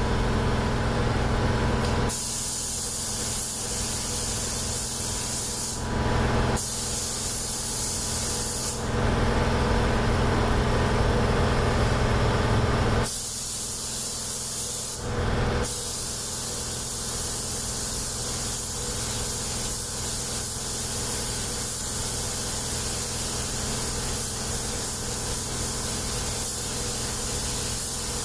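Compressed-air spray gun spraying primer onto car bodywork: long hisses, with the trigger released briefly a few times, over a steady low hum.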